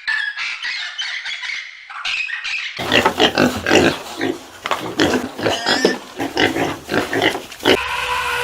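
High, rapid chattering animal calls for the first few seconds, then a sudden switch to pigs grunting and squealing loudly in quick succession, with a drawn-out pitched squeal near the end.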